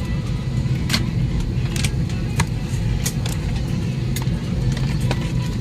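Steady low rumble inside an Airbus A320 cabin, with scattered sharp clicks and light knocks about once a second.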